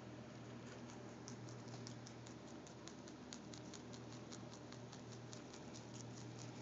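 Rabbit chewing cilantro: a fast, even run of small crisp crunching clicks, several a second.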